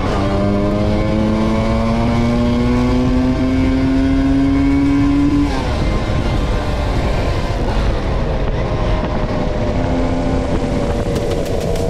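Vespa V50 scooter's small two-stroke engine running on the move, its pitch climbing steadily under acceleration for about five seconds, then dropping away. The pitch picks up again near the end, over a steady rumble of riding noise.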